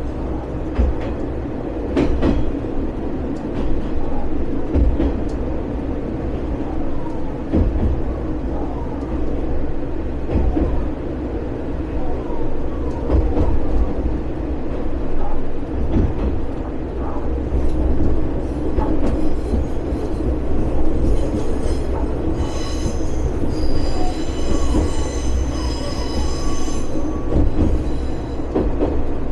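Single-car diesel railcar of the Watarase Keikoku Railway running along the line: a steady rumble with scattered clicks from the rails. Near the end a high wheel squeal sounds for several seconds.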